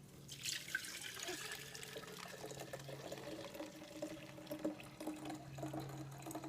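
Lemon juice being poured through a strainer into a container, a continuous trickle of liquid that starts about half a second in.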